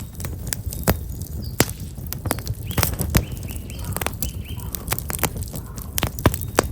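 Black locust firewood burning in an open fire, crackling with irregular sharp pops over a steady low rumble. Small birds chirp a few times in the middle.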